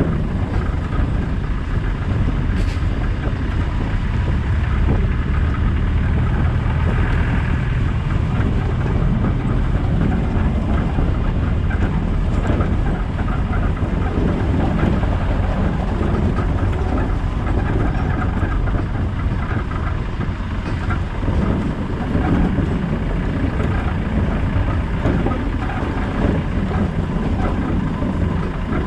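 Land Rover Discovery 200Tdi 2.5-litre four-cylinder turbodiesel engine running steadily as the vehicle drives, a continuous low rumble, with a couple of light knocks.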